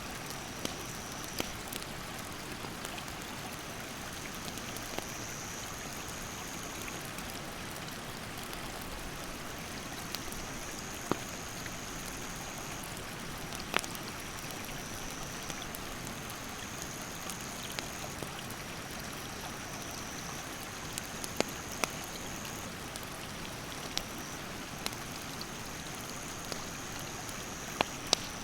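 A rushing stream runs steadily, and a wood fire cracks with sharp, scattered pops. An insect's high, steady call starts and stops in stretches of a second or three, its pitch stepping slightly between stretches.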